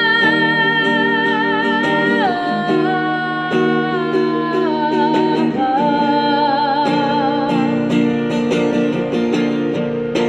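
A woman singing a long held note with vibrato that steps down in pitch a couple of times, over acoustic guitar strumming.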